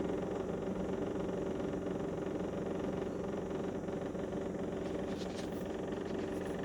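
Electrolux IF55S inverter refrigerator running with its compressor on: a steady vibrating hum with several held tones. The owner blames a very annoying vibration from something inside, apparently at the back of the freezer section.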